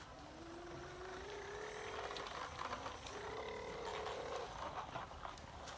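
A small motor whining, rising in pitch over the first two seconds and then holding steady for a second and a half, with clicks and rattles around it.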